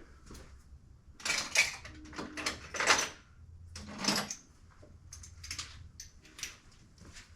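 Metal hand tools clinking and knocking as a ratchet and socket extension are picked out from among other tools: a handful of separate clatters, one with a short ring.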